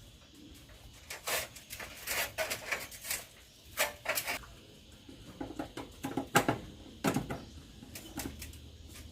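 Hands-on work taking an air conditioner apart: a series of irregular clicks, knocks and clanks of tools and metal parts, loudest about six seconds in.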